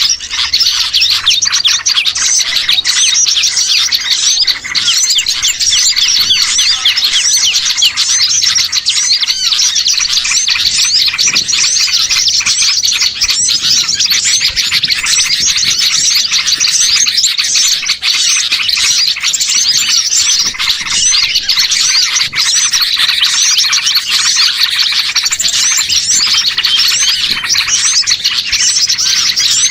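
Dense, unbroken chorus of many small songbirds chirping and twittering over one another, high and fast-paced: a recorded bird-lure (pikat) call track for drawing in small birds.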